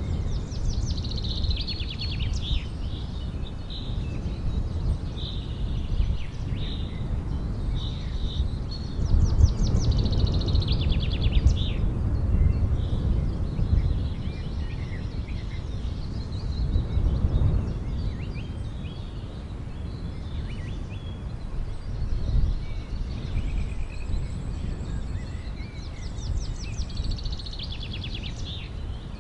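Outdoor ambience: birds chirping and trilling in quick runs of notes over a steady low rumble.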